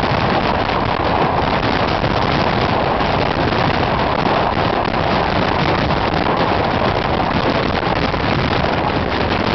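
Passenger train running at speed: a steady rush of rolling and wind noise.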